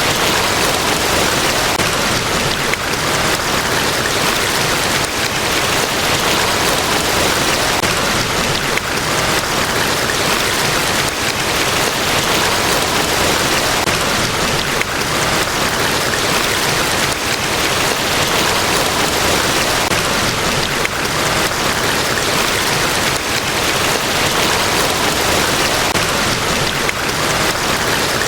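Large waterfall at Niagara Falls: a steady, unbroken rush of falling water.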